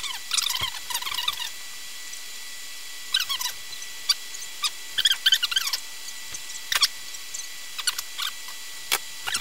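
Small birds chirping in short, scattered bursts of high-pitched twitters, the loudest clusters about a second in, around five seconds in, and near the end.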